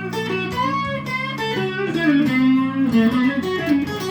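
Electric guitar playing a slow blues fill between sung lines, with notes bent up and down over a held low note.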